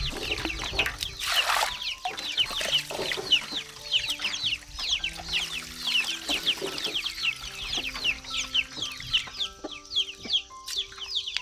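Many chicks peeping together: a dense, continuous stream of short, high, falling peeps. Soft background music with held notes plays underneath.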